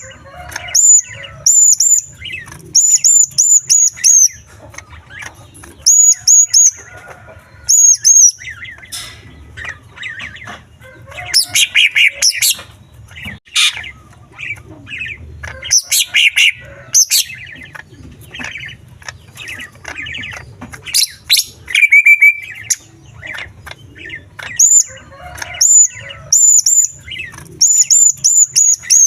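Green leafbird (cucak ijo) singing a loud, varied song packed with mimicry of small birds' calls: quick runs of short, very high chirps repeated in groups, broken by lower whistled phrases in the middle.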